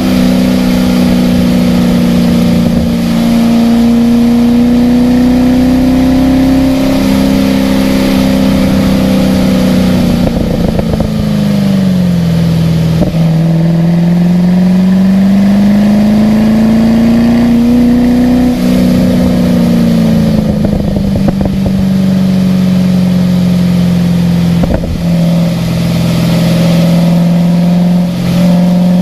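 A car's engine lapping a wet racetrack. Its pitch rises slowly and falls again over several seconds, with a few sudden steps at gear changes and a deep dip near the middle as the car slows for a corner.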